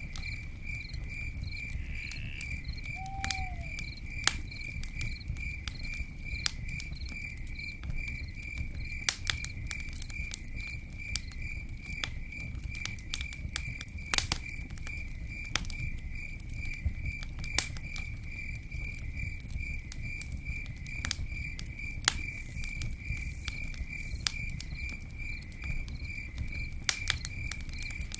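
Campfire burning, with irregular sharp crackles and pops over a low steady rumble. A cricket chirps steadily throughout, about three chirps a second.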